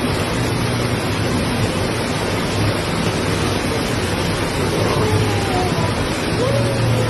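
Steady loud rushing noise of heavy rain and flowing floodwater.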